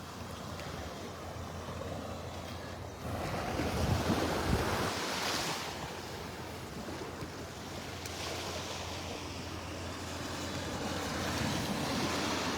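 Gulf of Mexico surf washing onto the beach, one wave swelling about three seconds in and another building near the end, with wind buffeting the microphone.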